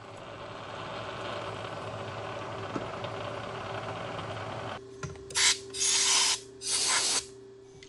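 A machine-driven 11/64 in drill bit cutting into an aluminum bar, a steady grinding whir over the spindle motor's hum. Nearly five seconds in the cutting noise stops, leaving the motor's steady hum, and three short hissing bursts follow.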